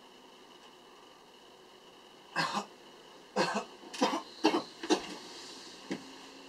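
A person coughing several times in short, sharp bursts, beginning a couple of seconds in.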